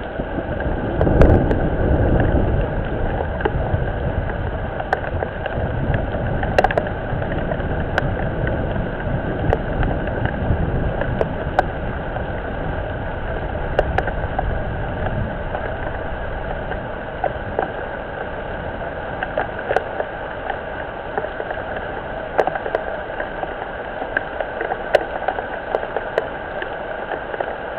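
Steady rain falling on a pond and its surroundings, with scattered sharp ticks of individual drops. A louder low rumble in the first several seconds.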